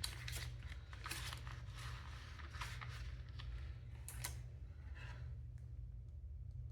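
Paper banknotes and cash envelopes being handled: soft rustles and light taps for about four seconds, then quieter, over a steady low hum.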